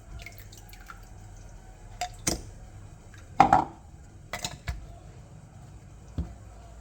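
Plastic Lego bricks clicking and clacking as they are handled and pried apart, about six sharp clicks with the loudest about three and a half seconds in.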